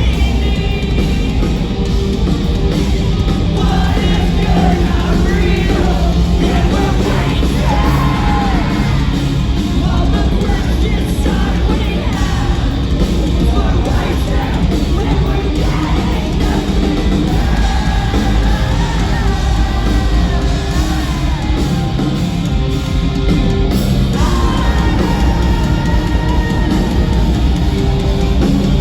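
Live post-hardcore band playing loud, steady rock music with sung and yelled vocals.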